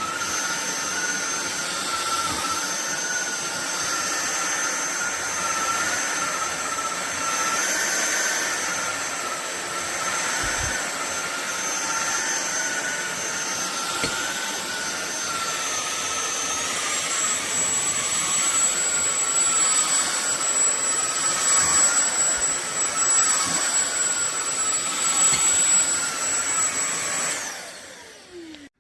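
Fieety cordless stick vacuum running with a steady rushing noise and a high motor whine. About 17 seconds in, the whine steps up in pitch and the vacuum gets a little louder. Near the end it is switched off and the whine falls away as the motor spins down.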